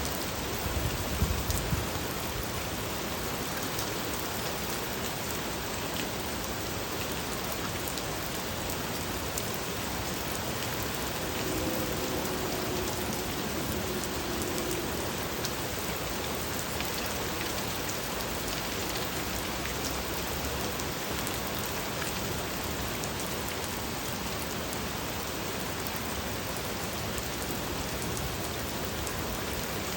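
Steady rain falling, an even hiss throughout, with a few low thumps in the first two seconds and a faint pitched sound around the middle.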